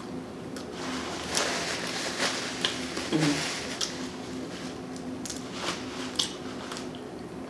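Close-miked chewing and wet mouth smacking of a cheesy crispy chicken sandwich, with scattered clicks and squishy bites.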